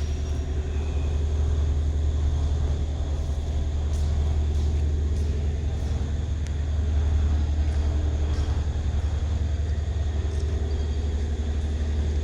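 A large engine or machinery running steadily, a deep low hum with a few faint clicks and knocks over it.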